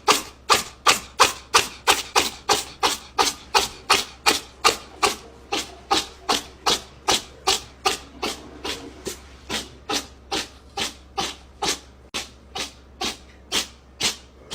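A steady series of sharp taps or knocks, about two and a half a second, evenly spaced throughout.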